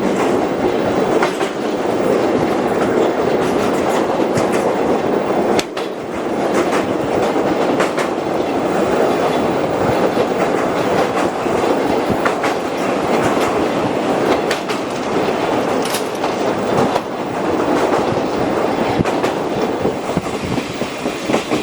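Running noise heard inside a locomotive-hauled passenger coach: a steady rumble of wheels on rail with irregular clicks and clatter over the rail joints, dipping briefly about six seconds in.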